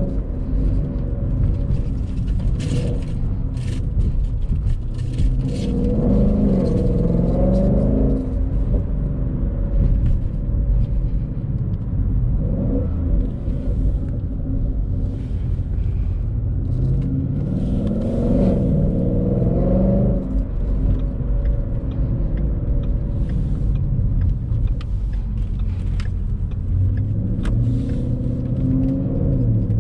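Ford Mustang GT's 5.0-litre V8 heard from inside the cabin while driving, a steady low rumble with road noise. The engine note rises twice as the car accelerates, about six seconds in and again about eighteen seconds in.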